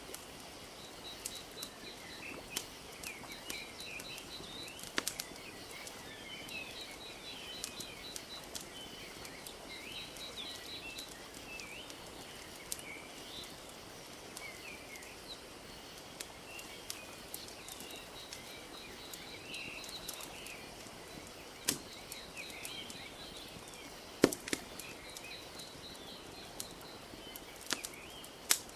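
Wood fire crackling, with scattered sharp pops, the loudest two a little after twenty and twenty-four seconds in, over a steady soft wash of lapping lake water. Birds chirp and trill throughout.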